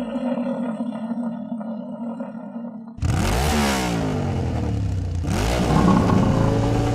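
Bisonte BTA-12SDE walk-behind rotary tiller's engine running: a steady hum at first, then about three seconds in it gets suddenly louder, with the revs falling away, picking up again and falling once more.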